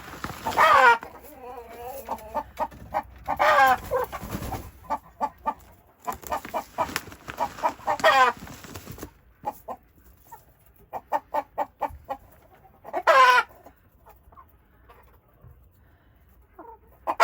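Chickens clucking in runs of short clucks, with four louder drawn-out squawks spread through.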